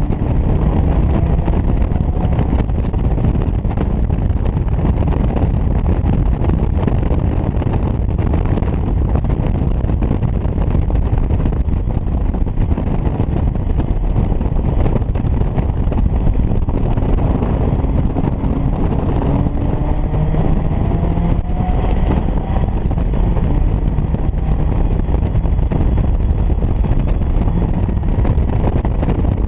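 Caterham Academy race car engine running hard on track, its pitch rising and falling with the revs, under heavy wind buffeting on the microphone of the open car.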